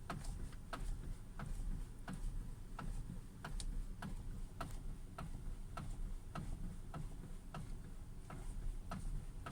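Knocking in a 2017 Hyundai Creta's steering column as the steering wheel is turned with the car standing still: sharp knocks, about three every two seconds. It is a new fault in the steering column.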